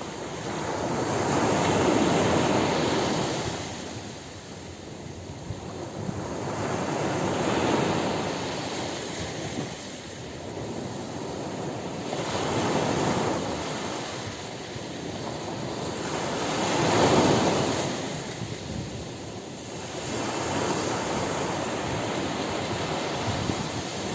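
Ocean surf breaking on a beach: a rushing wash of waves that swells and ebbs in slow surges about every five seconds, the loudest a little past the middle.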